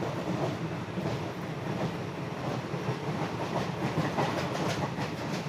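Passenger train running, heard from inside the coach: a steady low rumble with wheels clicking over the rail joints, the clicks thickest about three and a half to five seconds in.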